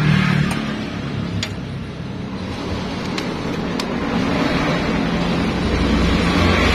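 Yamaha Nmax scooter engine running, its low hum growing louder near the end.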